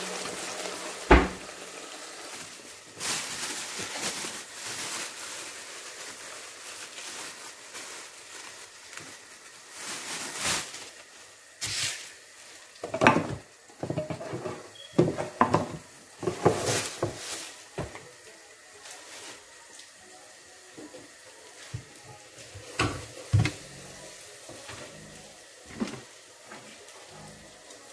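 Onion-and-spice masala frying in oil in a metal pot, a steady sizzle, with scattered knocks and scrapes from stirring and kitchen handling; a sharp knock about a second in.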